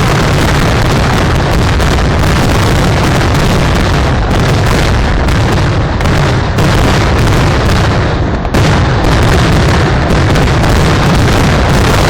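A continuous barrage of firework explosions, so rapid that the bangs run together into one loud, dense roll with a heavy low rumble, easing only briefly about eight and a half seconds in.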